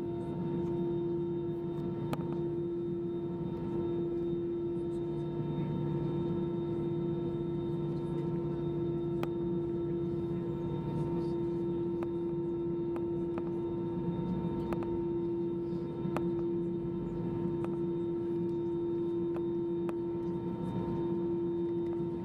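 Airbus A320 cabin noise during taxi: the jet engines turning at idle give a steady whine over a low rumble, with a few faint clicks.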